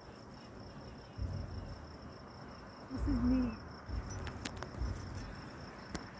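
Crickets chirping steadily, with several low, muffled booms of distant fireworks (the loudest about three seconds in) and a few sharp cracks.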